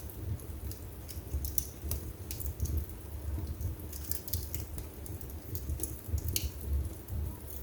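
Wood fire burning in a fireplace: irregular sharp crackles and pops over a low rumble of the flames.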